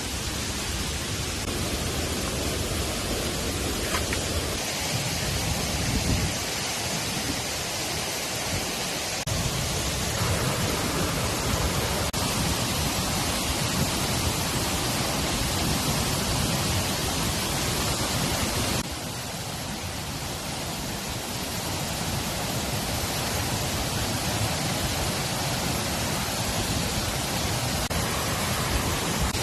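Steady, loud rush of rain and running water. The noise drops suddenly about two-thirds of the way through, then builds back up.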